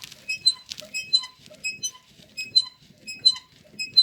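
A VAZ 21099's rear left suspension squeaking over and over in short, high squeaks, about one every half second. The owner suspects the rod of the rear brake pressure regulator (the "kolduny") is rubbing.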